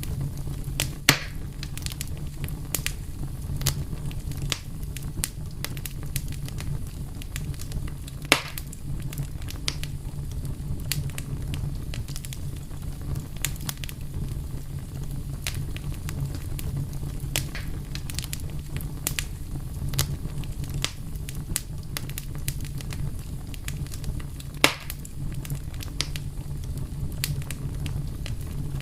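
Wood fire burning with a steady low rumble and frequent sharp crackles, punctuated by three louder pops: about a second in, around eight seconds in, and near the end.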